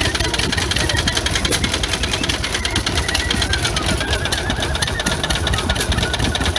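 Old engine running steadily, a fast, even run of knocks over a low rumble.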